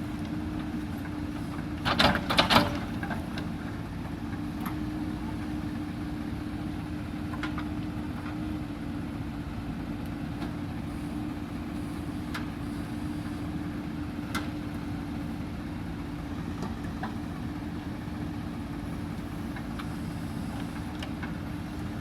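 Backhoe loader's diesel engine running steadily. About two seconds in there is a short, loud clatter of knocks, and a few lighter clicks follow later.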